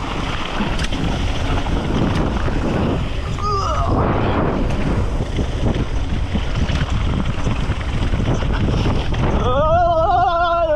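Wind buffeting the microphone of a mountain bike descending a trail at speed, a steady rushing noise. Near the end a drawn-out, wavering pitched sound rises over it.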